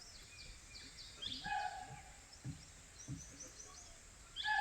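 Forest animal calls: a short, shrill, flat-pitched call repeats about every three seconds, the loudest sound, with small birds chirping high above it.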